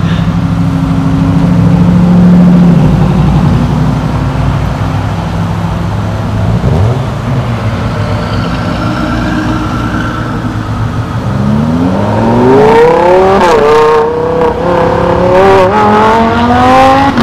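Engines idling and traffic rumbling at an intersection. From about twelve seconds in, a performance car accelerates hard: its engine revs rise steeply in pitch and drop back at each upshift, several times in quick succession.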